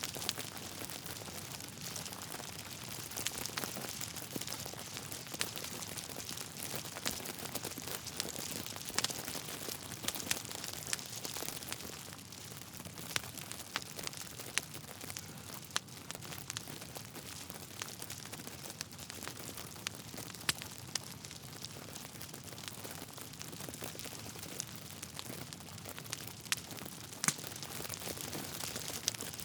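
Wood fire burning in a fireplace: a steady hiss with irregular sharp crackles and pops from the logs.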